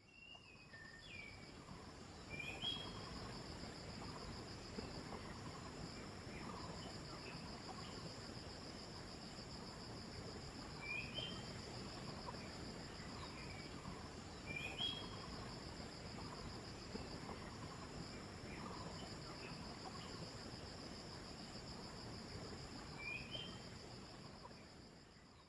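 Faint woodland ambience: a steady high insect drone throughout, with short bird chirps a handful of times, the clearest about two, eleven, fifteen and twenty-three seconds in.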